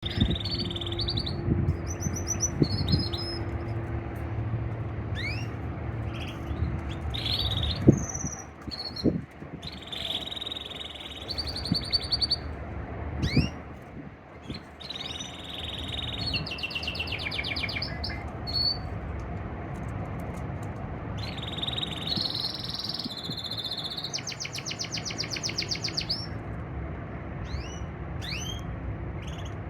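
Male canary singing a courtship song to a female: phrases of fast trills and short rising whistled notes, one after another with brief gaps. Under the song runs a steady low rumble, with a few low thumps.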